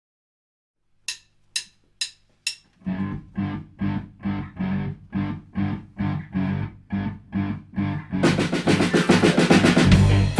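Live band opening a song: four sharp count-in clicks about half a second apart, typical of drumsticks clicked together, then drums and bass come in with a steady beat of about two hits a second. About eight seconds in, a snare drum roll with cymbals builds up into the full band.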